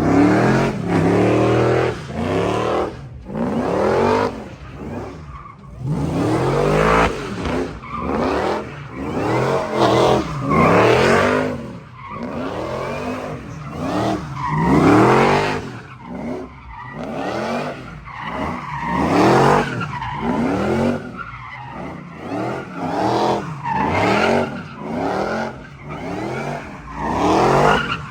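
Drifting vehicles on a course, engines revving up and down repeatedly with tyre squeal.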